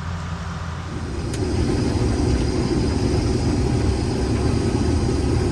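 Combine harvester running, its engine drone swelling about a second in and then holding steady, as if throttling up to resume harvesting. A single sharp click sounds just after the rise.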